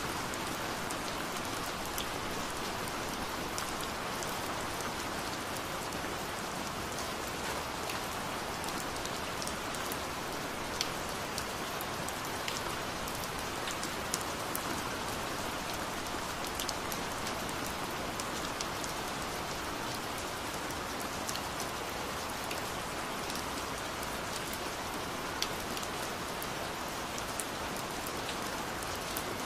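Rain-sounds track: steady rain, with many sharp drop ticks scattered through it.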